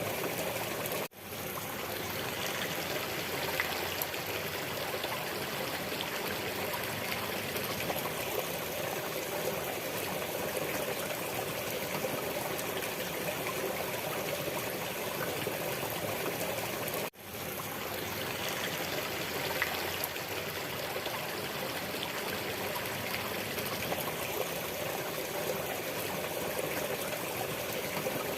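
Steady running water, like a trickling stream, with two momentary dips almost to silence, about a second in and again about seventeen seconds in.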